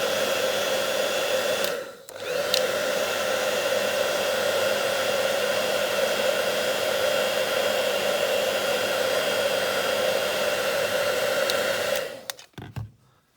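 Handheld hairdryer blowing steadily with a whine, warming a die-cast metal model's tail to bend it. It dips off briefly about two seconds in, then is switched off near the end, followed by a couple of small knocks.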